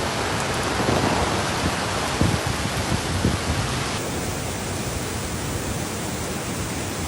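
Heavy typhoon rain and wind as a dense, steady hiss with low gusts swelling under it; the sound thins a little about four seconds in.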